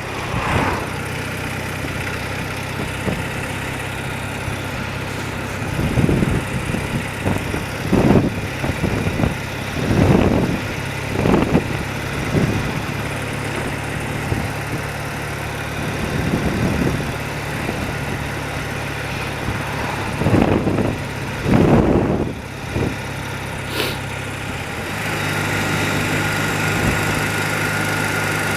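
Old BMW motorcycle engine running steadily while under way, with several loud rushing swells coming and going over it. Near the end the engine note rises slightly and gets louder.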